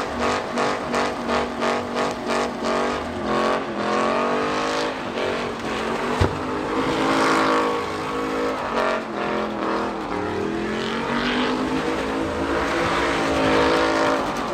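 Truck engine revved hard during a burnout. It pulses in quick repeated blips at first, then its pitch rises and falls, over a hiss of tire squeal. A single sharp crack comes about six seconds in.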